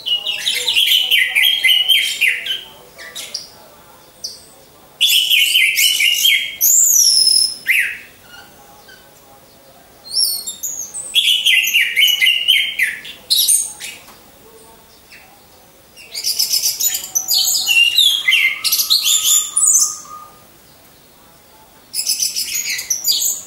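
Orange-headed thrush (anis merah) singing: five loud phrases of rapid, varied whistled notes with sweeping glides, each two to three seconds long, with pauses of about two seconds between them.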